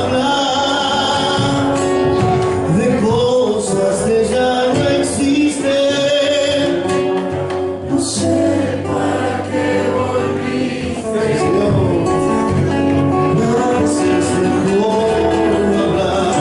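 Argentine folk song with several voices singing together over instruments.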